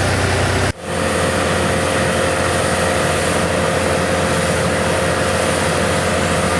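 An engine running steadily. It drops out sharply for a moment under a second in and resumes as a steady hum with a held tone.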